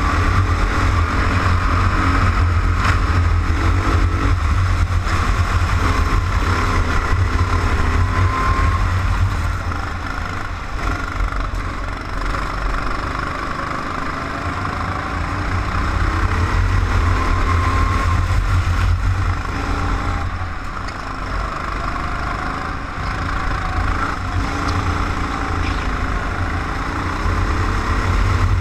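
Go-kart engine heard from an onboard camera, its pitch rising as the kart accelerates and dropping as it slows for corners, over heavy wind and vibration rumble on the microphone.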